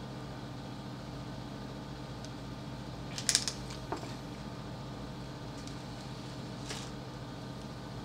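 Paper drink cup set down with a short clatter a little over three seconds in, followed by a smaller click just before four seconds. A steady low hum runs underneath.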